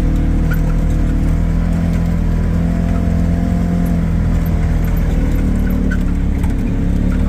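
A vehicle engine running at a steady speed, a constant low drone.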